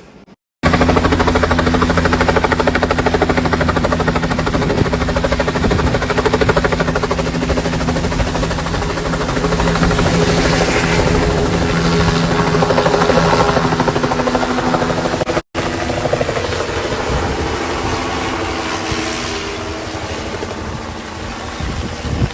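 Helicopter running loudly: fast, even rotor-blade chop over a steady engine hum. It starts abruptly about half a second in, and the sound drops out briefly just past the middle.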